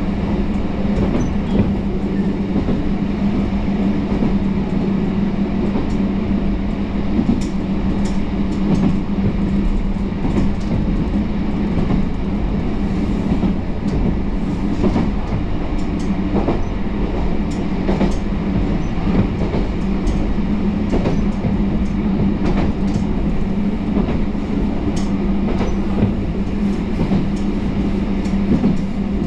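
Kyoto Tango Railway diesel railcar running along the line: a steady engine drone over the rolling rumble, with the wheels clicking over rail joints at uneven intervals.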